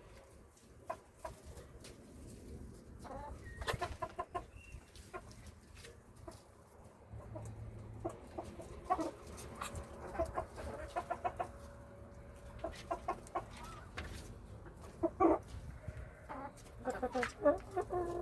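Hens clucking in the coop: clusters of short clucks come and go, the loudest bunched near the middle and end.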